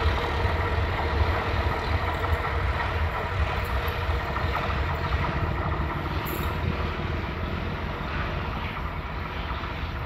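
Diesel-hauled passenger train pulling away along the track: a low engine and rail rumble that slowly fades as it recedes.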